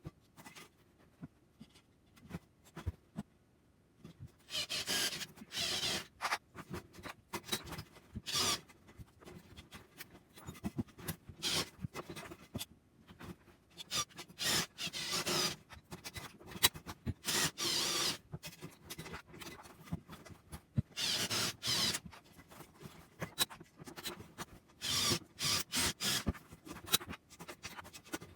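Rough scraping strokes from hand-working material, as with a file or rasp. They come in runs of about half a second to a second and a half each, with small clicks and knocks in between.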